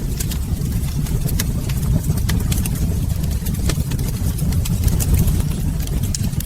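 Wood fire crackling in a fireplace: a steady low rumble of burning with frequent irregular sharp snaps and pops.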